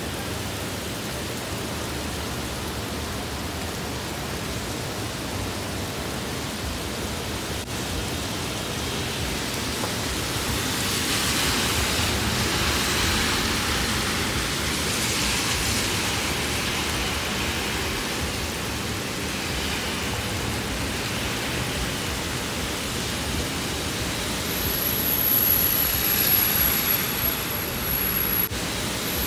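Heavy rain falling on a street, a steady hiss that swells louder about midway and again near the end.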